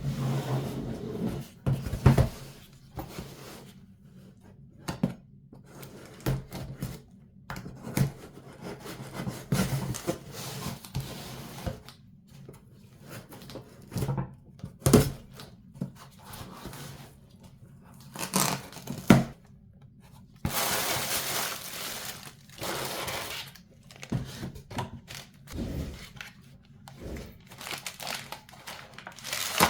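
Hands handling PC parts and their packaging: a string of irregular clicks and knocks with rustling, and a longer rustling stretch about twenty-one to twenty-three seconds in, over a faint low hum.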